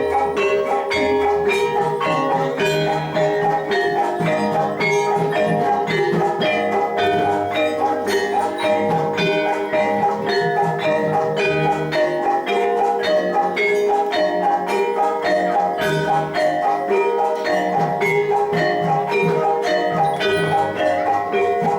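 Javanese gamelan playing jathilan accompaniment: bronze mallet instruments struck in a fast, steady pattern, with deep low strokes underneath from time to time.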